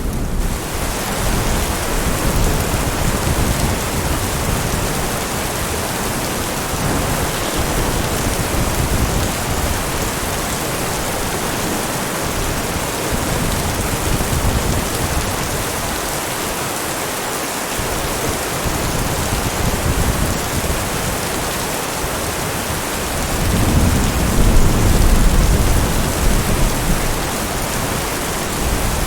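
Heavy rain falling steadily with thunder rumbling low underneath; a louder roll of thunder swells and fades about three-quarters of the way through.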